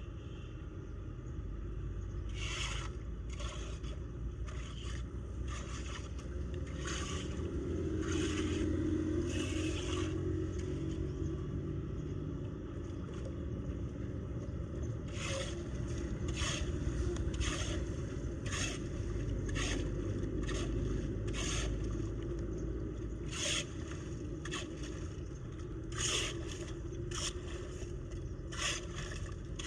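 Repeated scraping strokes of a tool dragging debris from a clogged storm drain, coming roughly once a second in the second half, over a steady low rush of floodwater draining.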